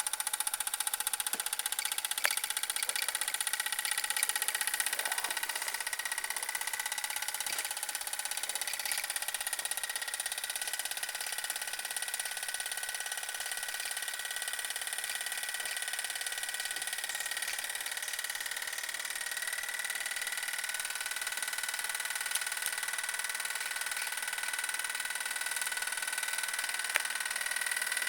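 Mamod TE1a live-steam model traction engine running steadily, its small steam engine chattering evenly with a hiss of steam.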